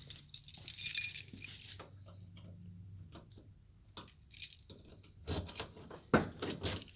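Keys jingling about a second in, followed by scattered clicks and a few knocks, the loudest about six seconds in, as a truck's rear hatch is unlocked and opened.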